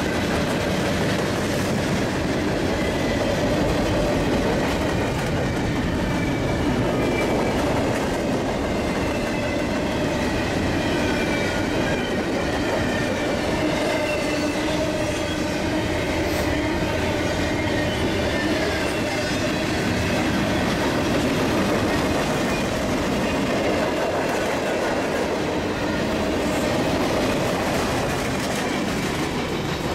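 Freight train of hopper, gondola, tank and double-stack container cars rolling past at speed: steady rumble and clatter of steel wheels on the rails, with a faint wheel squeal running through it.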